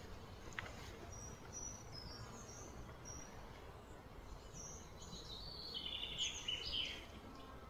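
Small birds chirping: short high calls in the first few seconds, then a louder run of chirps about five to seven seconds in, over a steady low outdoor background hum.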